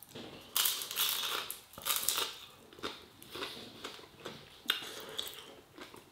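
A person biting and chewing crunchy food close to the microphone: a run of loud crunches in the first two seconds or so, then softer, spaced chews.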